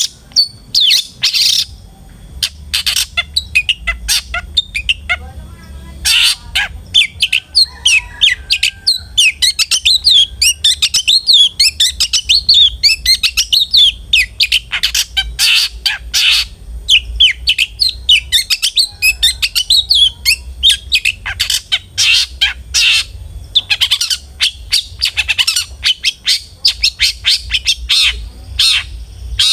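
Long-tailed shrike (cendet) singing vigorously: a long run of rapid, sharp chattering and squawking notes, packed most tightly through the middle, with more spaced-out loud calls before and after. A faint steady low hum sits underneath.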